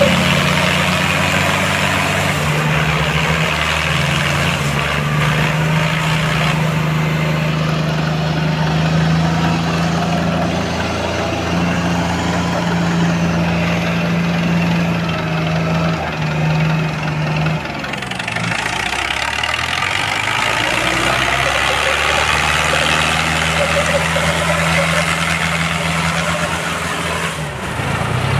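Diesel tractor engines running hard under load as two tractors pull against each other in a tug-of-war. The engine note sags and drops for a couple of seconds about two-thirds of the way through, then picks back up.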